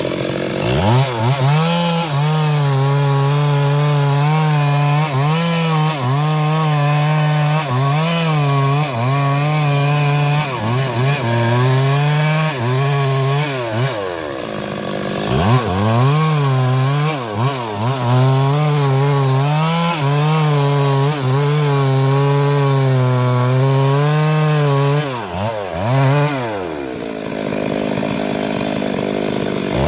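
Stihl MS 382 two-stroke chainsaw at full throttle cutting into the wood of a large sengon trunk. The engine pitch dips and recovers as the chain is loaded. About halfway through and again near the end the engine drops back toward idle, then revs up again into the cut.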